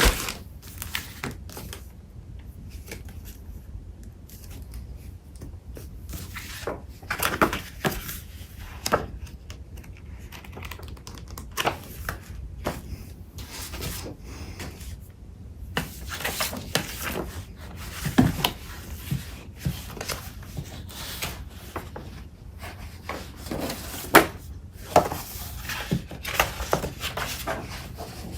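Paper crafting supplies being handled and shuffled: scattered rustles, taps and sharp crinkles of sheets and packets, with several louder sharp handling noises among them.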